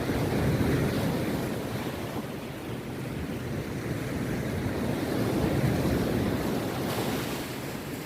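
Rough sea surf washing onto the beach, swelling twice as waves break, with a hiss of spray near the end. Wind buffets the microphone.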